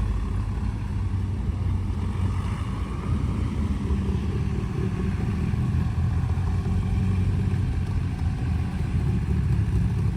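Car engine idling with a steady low running note.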